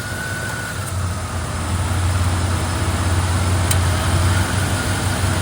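LT1 5.7-litre V8 with newly installed headers idling steadily, a low even rumble with a thin faint whine above it. A single sharp tick about two thirds of the way in.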